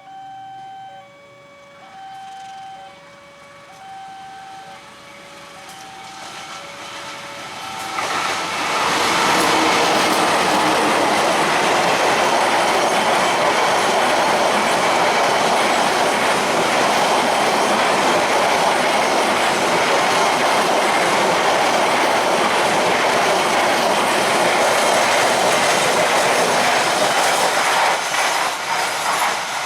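Railway level-crossing warning alarm sounding two alternating tones, one high and one low, each about a second long. About eight seconds in, a train passes over the crossing with a loud, steady rush of wheels on rail that drowns the alarm and eases off near the end.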